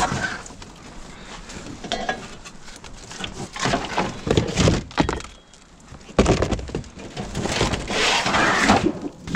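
Netted firewood logs being handled and loaded: a run of wooden knocks and thunks with rustling, in two louder bursts, the first a few seconds in and the second filling most of the later half.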